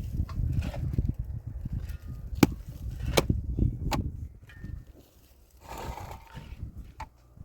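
Scattered sharp knocks and taps, a few at a time, over a low rumble that dies away about halfway through, as of hand work with wood and tools.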